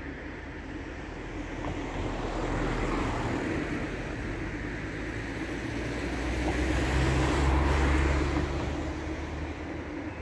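Electric locomotive-hauled passenger train approaching along the line, its rumble growing, mixed with a steady low drone of passing road traffic that swells to its loudest about eight seconds in and then eases.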